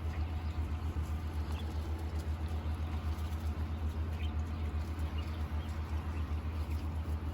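A steady low hum runs throughout, with faint, short, high chirps now and then, likely from the quail.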